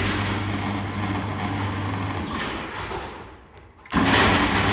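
Automatic Technology GDO-7V2 garage door opener running with a steady motor hum as the door travels, fading out about three and a half seconds in, then starting up again about half a second later.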